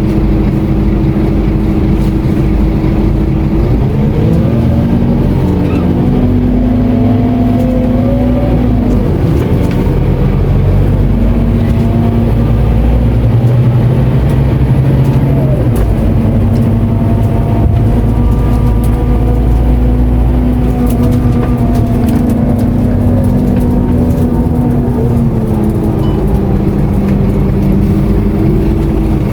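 Scania K230UB city bus's five-cylinder diesel engine heard from on board. It runs steadily at first, then climbs in pitch in several steps as the bus pulls away and the automatic gearbox shifts up. It holds a steady note, then drops in pitch as the bus slows near the end.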